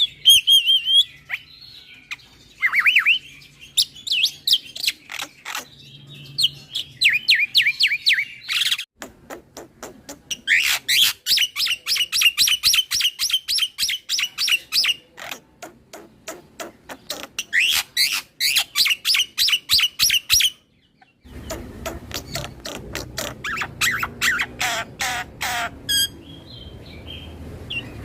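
Black-winged starling singing long runs of rapid repeated chattering notes mixed with short whistles, in several bursts with short pauses between them. About two-thirds of the way through there is a brief break and the background changes.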